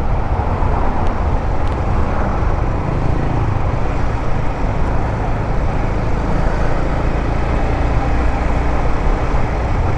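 A 150cc motorcycle running at road speed while being ridden, its engine rumble steady under a constant rush of riding noise.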